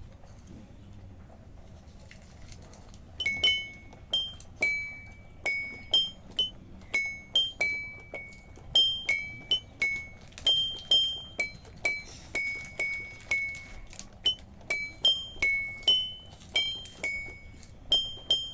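Toy xylophone being tapped: single high-pitched notes struck one at a time, about one or two a second, each ringing briefly, starting about three seconds in. The notes move mostly between two or three neighbouring bars.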